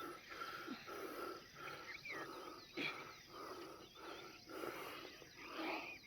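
A person walking briskly, footsteps and breath on the microphone in a steady rhythm about twice a second, with faint bird chirps above.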